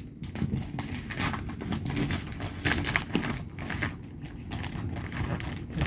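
Packaging being handled as a box is opened: irregular crinkling and crackling with small clicks and scrapes.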